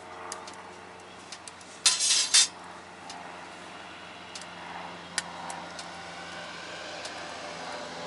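A short clatter of metal cookware, three quick hits close together about two seconds in, over a steady background with scattered small crackles and ticks from the burning wood stove.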